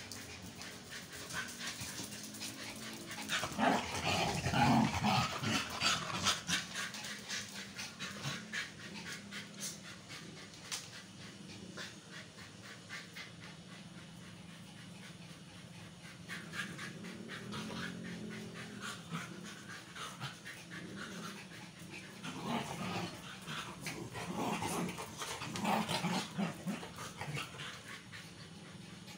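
A dog whining and panting, with a louder spell of whining a few seconds in and another near the end.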